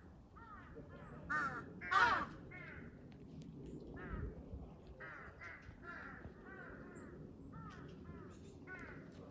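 A flock of crows cawing, many calls one after another and overlapping, some near and loud, others fainter; the loudest caws come about one and two seconds in.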